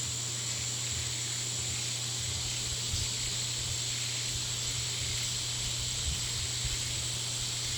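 Steady hiss with a low, even hum underneath and a couple of faint low knocks.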